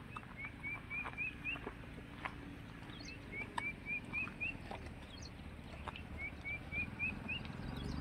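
A songbird repeating a short phrase of four or five quick, upslurred whistled notes, the last ones a little higher, three times with pauses between. Scattered sharp clicks sound over it.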